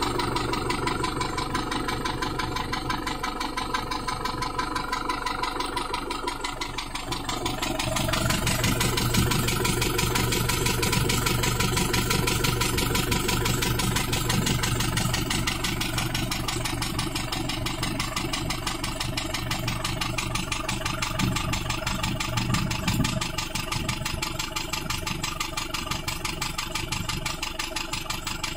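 Isuzu Panther diesel engine running at idle, steady, with a rise in loudness about eight seconds in. The engine is said to have heavy blow-by ('ngobos'), a sign of worn internals needing an engine overhaul.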